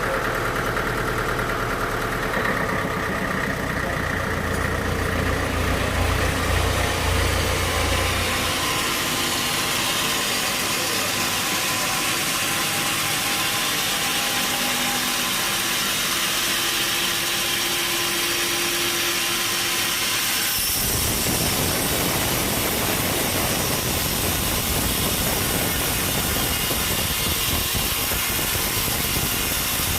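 Sawmill machinery running steadily. About two-thirds of the way through, the sound turns suddenly to a denser, harsher noise that holds on.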